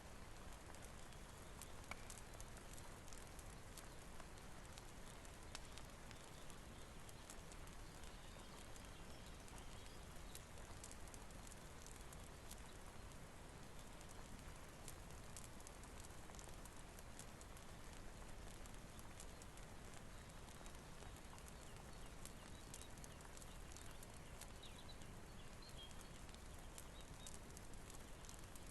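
Steady rain hiss with a wood fire crackling in the fireplace: small, scattered pops over the rain.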